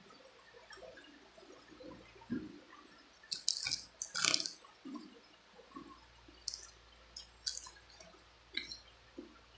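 Close-miked wet eating sounds from chewing and sucking on spicy chicken feet, with irregular smacks and several short, sharp bursts, the loudest about three to four and a half seconds in.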